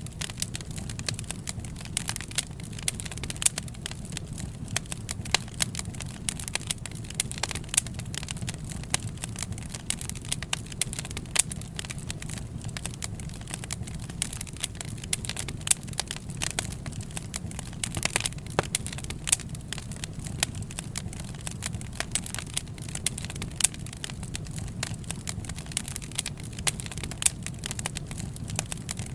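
Wood fire crackling: a steady low rumble of flames with many irregular sharp pops and snaps throughout.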